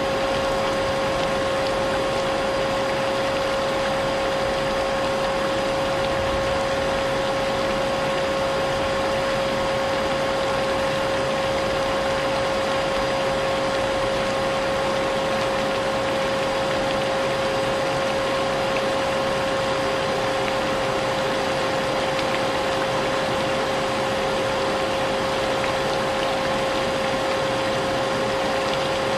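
A vacuum cleaner running steadily with a constant motor whine, under an even hiss of rain.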